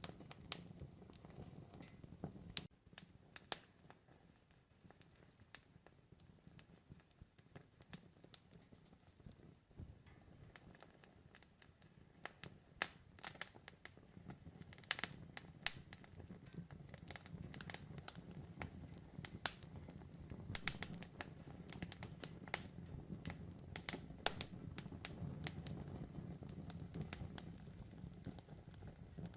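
Campfire crackling, with irregular sharp pops and snaps over a low rush of burning wood. The rush drops away a few seconds in and builds again in the second half.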